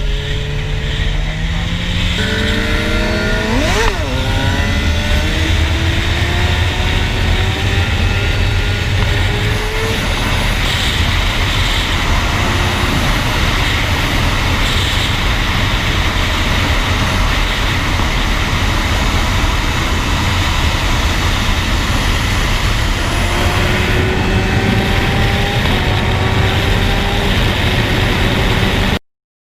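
Suzuki GSX-R 750 inline-four sport bike with an aftermarket Akrapovic exhaust accelerating, its pitch rising repeatedly through the gears, over a steady rush of wind on the microphone. About four seconds in, a second engine note passes across it.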